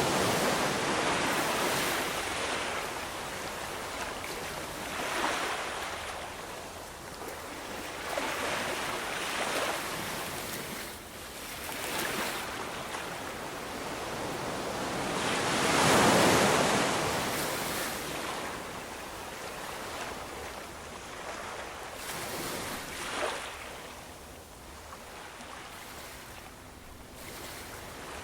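Ocean waves breaking and washing on a shore, coming in surges every few seconds, with the largest wave breaking about halfway through.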